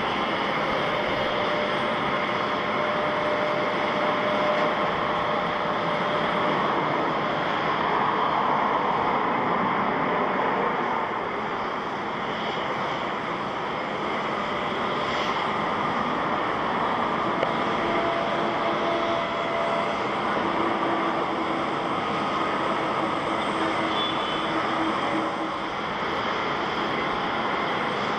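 Jet airliner engines running, a steady rush of noise with faint engine tones held over it.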